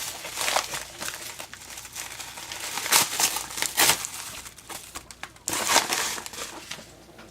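Crinkling and rustling of a pocket letter's plastic sleeve pages being handled, in irregular bursts, loudest about three, four and six seconds in.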